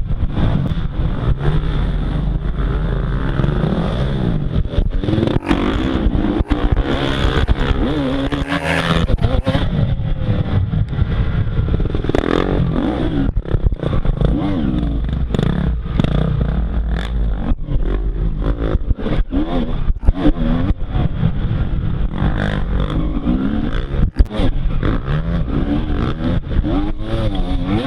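Motocross dirt bike engine revving hard, its pitch rising and falling again and again as it accelerates and backs off around the track, with frequent sharp knocks and clatter over it.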